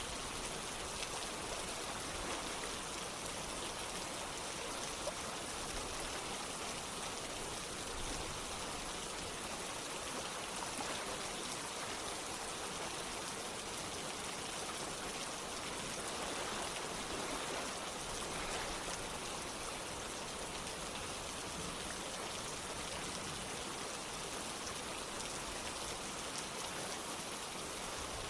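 Rain falling together with running water: a steady, even hiss with a fine patter of drops that holds unchanged.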